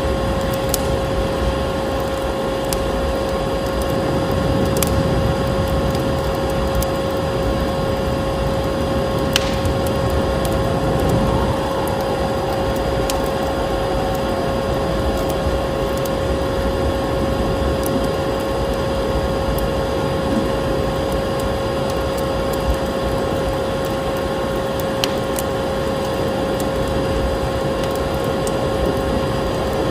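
Vacuum cleaner running steadily with a constant whine, layered with a wood fire crackling and giving an occasional sharp pop.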